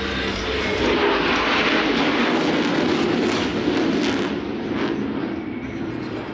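Jet noise from a Su-30MKM fighter's twin turbofan engines during its flying display. The roar swells about a second in and eases off near the end.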